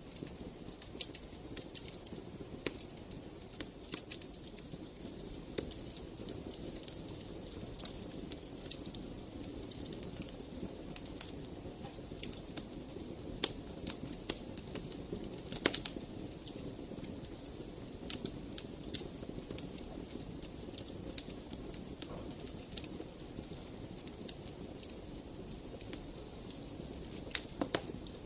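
Wood fire crackling in a fireplace: irregular sharp pops and snaps over a steady low rush of burning, with one louder pop about sixteen seconds in.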